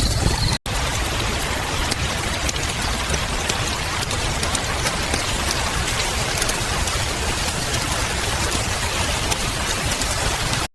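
Wood fire burning, with a steady hiss and many small crackles and pops. A brief gap of silence about half a second in, where the recording cuts.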